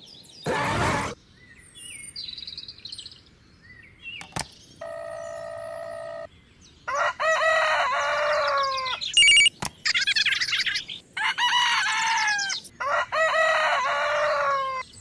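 Rooster crowing four times in a row through the second half. A short whoosh comes under a second in, and a brief steady tone follows around the middle.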